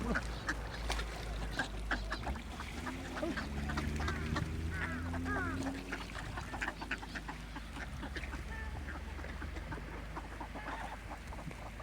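A flock of ducks quacking, with many short, pitch-bending calls from several birds at once, as they crowd in to be fed. A low steady hum runs underneath.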